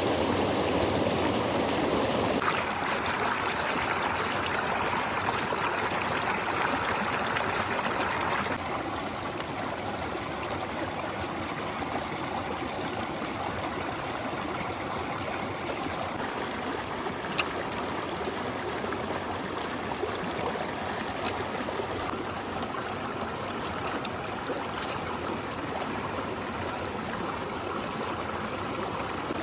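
River water flowing steadily. The sound changes abruptly about two and a half seconds in and again around eight seconds, then goes on a little quieter. A single sharp tick comes about seventeen seconds in.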